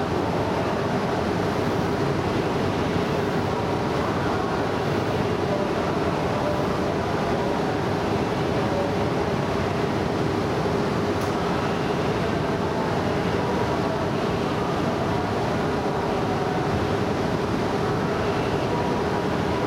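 Steady hum of a Shinkansen train and its equipment at the station, with a constant mid-pitched tone that neither rises nor falls.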